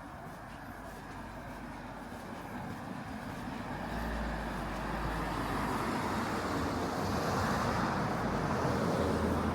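A motor vehicle approaching on the street, its engine and tyre noise swelling steadily and loudest near the end.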